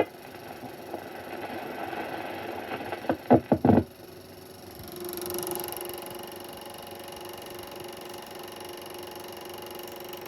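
Run-out of a standard 8mm sound film reel after the closing music: a steady soundtrack hiss with a few knocks about three seconds in, then a steady hum.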